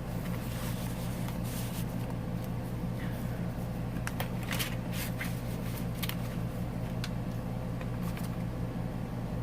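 Paper and card stock being handled, with a scattering of short rustles as journal pages and a card are moved, over a steady low hum.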